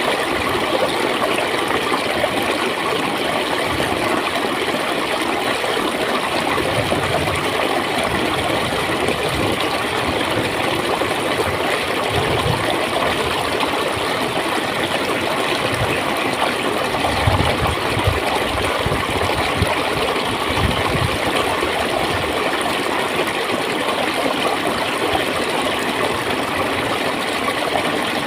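Flowing water in a stream, a steady rush and gurgle with a few deeper surges partway through.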